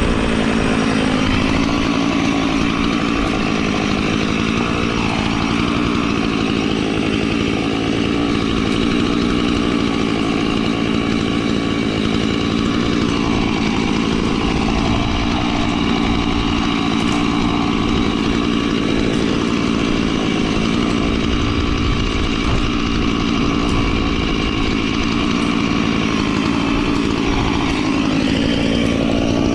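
A small engine running steadily, its pitch rising briefly near the end.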